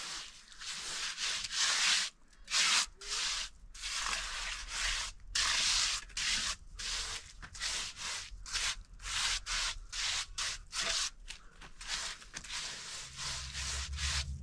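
Rough rasping strokes repeated about twice a second, irregular in length and loudness, as of a rough surface being scraped or rubbed by hand.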